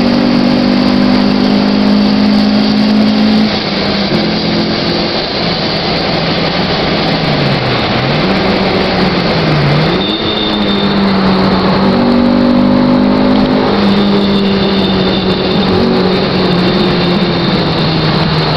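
Honda Civic engine heard from inside the cabin, running at speed under a haze of tyre and wind noise. Its pitch drops after a few seconds, dips and climbs back twice near the middle, then holds steady again.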